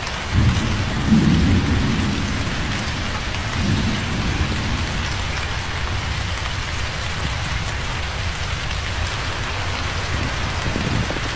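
Steady rain falling, with a low rumble of thunder rolling in just after the start and peaking about a second in. A weaker rumble follows around four seconds in, and another near the end.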